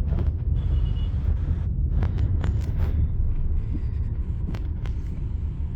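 Steady low road and engine rumble heard inside a moving car's cabin, with a few faint clicks.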